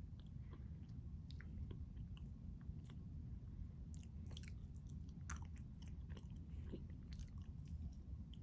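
Close-miked chewing of ice cream with crunchy chocolate bits, with many small crackles and clicks, the sharpest a little past the middle, over a steady low hum.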